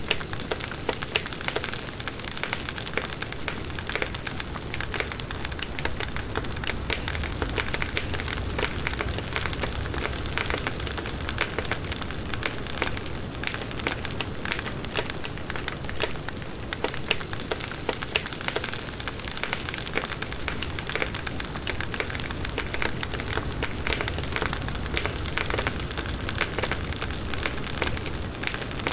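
Firewood burning in an open campfire, crackling steadily: a dense run of small pops and snaps over an even hiss and a low rumble of the flames.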